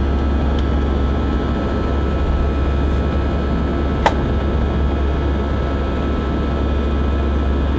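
Steady cabin noise of an Airbus A319 airliner in flight: a loud, even rumble of the jet engines and airflow with a deep hum underneath. A single sharp click about four seconds in.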